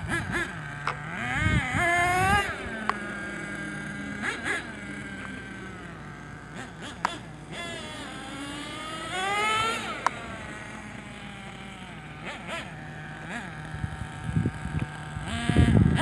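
Small .28-size nitro engine in a 1/8-scale RC monster truck, running with a steady idle note and revved up and back down several times. Shortly afterwards the owner judges it to be running a little lean.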